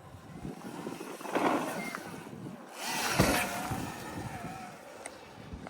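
Sur-Ron electric dirt bike riding on dirt, with two surges of tyre and motor noise and a faint wavering motor whine; a sharp knock a little after three seconds.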